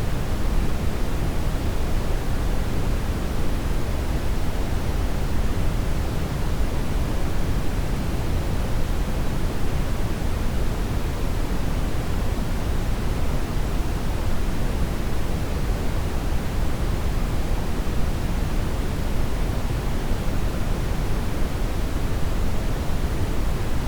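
Steady brown noise: a deep, even hiss weighted toward the low end, unchanging throughout.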